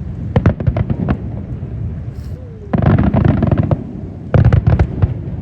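Aerial fireworks bursting in three loud volleys of rapid cracks and booms, the middle one a dense crackle lasting about a second.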